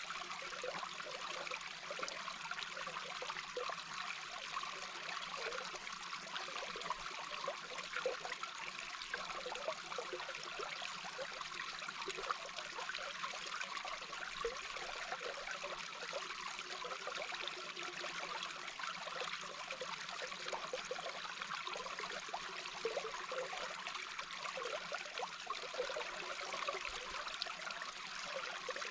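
A babbling brook heard underwater: a steady rush of flowing water with many small scattered pops throughout.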